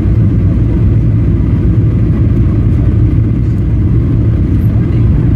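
Inside the cabin of a Boeing 737 airliner on approach: a loud, steady low rumble of the jet engines and airflow.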